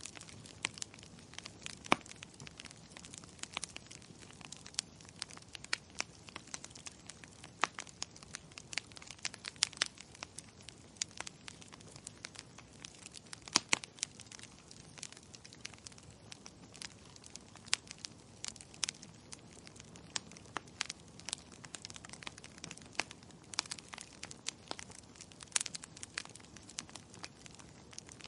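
Wood fire crackling: dense, irregular sharp pops and snaps over a faint steady hiss.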